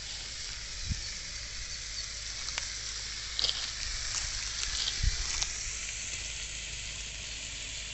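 Garlic chicken sizzling steadily on a hot tawa, with a few faint knocks and crackles.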